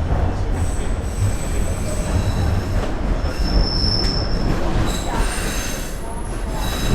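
Bombardier Toronto Rocket subway train's steel wheels squealing on the rails over a steady low running rumble as it pulls into the terminal station. Several high squeal tones come and go.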